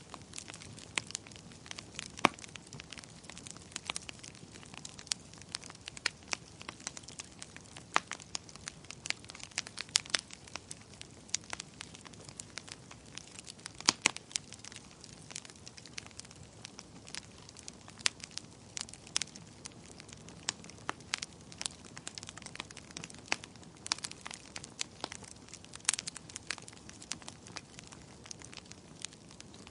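Wood fire crackling: irregular sharp pops and snaps, several a second, over a low steady hiss of burning.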